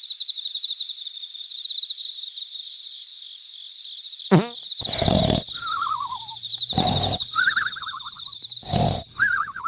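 Three short animal roars about two seconds apart, each followed by a falling cry, over a steady high trill.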